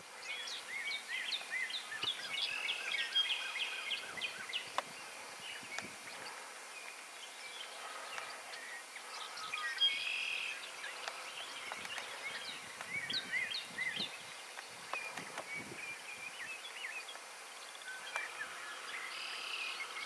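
Several songbirds chirping and singing over a faint steady hiss of outdoor background noise. The calls come thickest in the first few seconds and again near the end.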